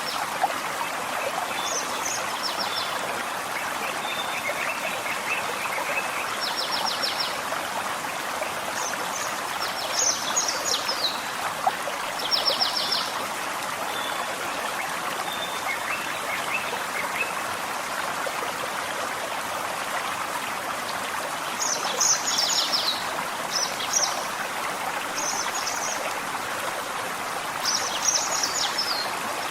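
Small forest stream babbling steadily over rocks. Birds sing short, high trilled phrases and chirps over it now and then, busiest around ten seconds in, after about twenty-two seconds, and near the end.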